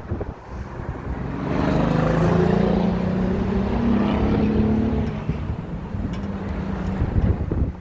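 A motor vehicle passing on the road below, its engine note swelling up about a second and a half in and fading away over about four seconds. Wind rumbles on the microphone throughout.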